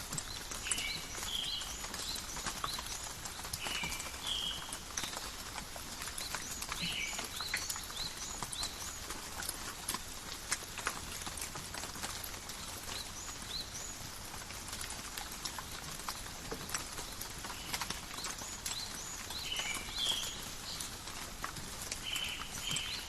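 Steady light rain, with many scattered drops pattering and dripping. Small birds chirp in short, repeated calls now and then.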